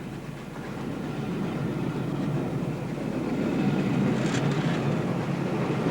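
LNER A4 Pacific steam locomotive running on the line, a dense rumbling train noise that grows steadily louder as it approaches.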